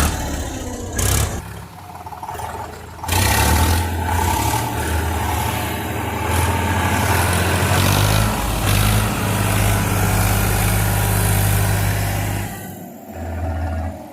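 Tractor diesel engine running hard and revving under load. The sound changes abruptly a few times, as between clips.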